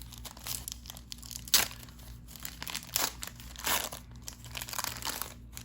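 Trading cards and their pack wrapper being handled: irregular crinkling and rustling, with one sharp click about a second and a half in.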